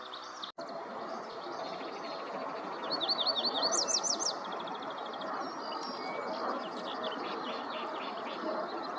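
Small songbird singing a rapid run of high, quickly repeated notes about three seconds in, with fainter bird calls after it, over a steady background hiss.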